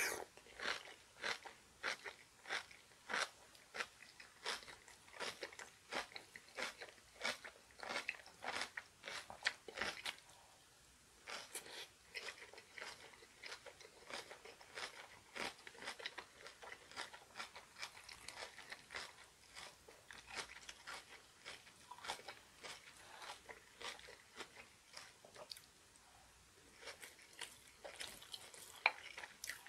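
Close-up chewing of crunchy kimchi with rice: crisp crunches about twice a second, turning to softer, quicker chewing after about ten seconds.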